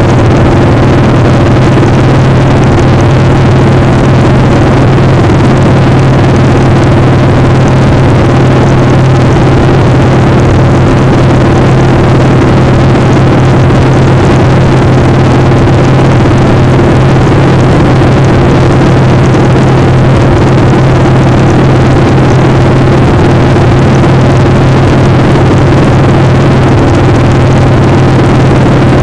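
Motorcycle engine running at a steady, unchanging pitch, loud, under a constant rush of wind noise.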